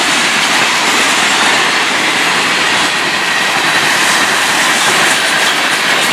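Freight train rolling past, a steady, loud noise of steel wheels on rail with no let-up.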